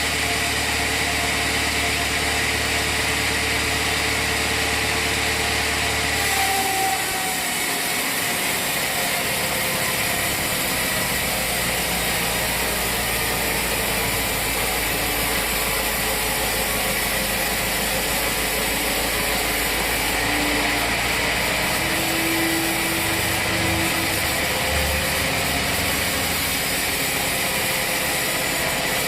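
Sawmill machinery running steadily with an engine-like hum; the low hum changes pitch about six and a half seconds in, then runs on evenly.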